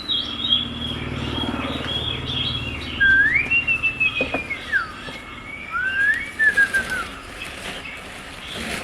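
Birds chirping and whistling: short chirps and a few long whistled notes that rise, hold and fall, with a low fluttering rumble under the first three seconds.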